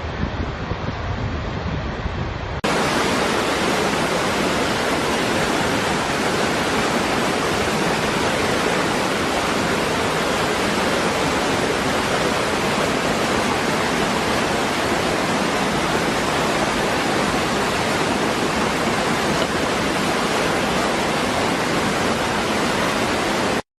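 Waterfall: a steady, even rush of falling water. It starts abruptly about two and a half seconds in, replacing a duller, rumbling wind-and-water noise, and cuts off suddenly near the end.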